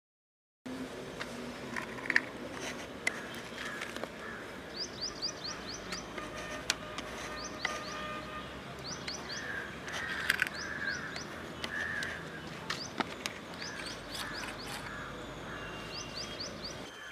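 Outdoor ambience in which a small bird repeats short runs of three to five quick, high chirps, over and over, with scattered sharp clicks and taps. The sound drops out completely for about half a second at the start.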